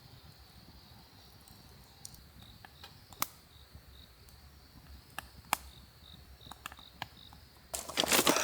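Crickets chirring steadily in a high, even tone with short chirps, broken by a few sharp clicks and then a loud burst of noise near the end.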